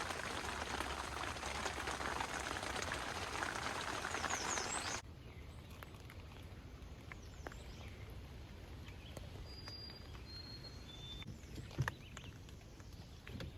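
A steady hiss for about five seconds, then an abrupt change to light rain pattering with scattered drips and a bird giving a few short, high whistled notes.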